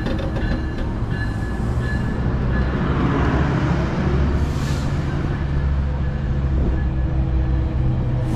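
Metrolink commuter train departing, its double-deck passenger cars rolling past close by with a steady low rumble.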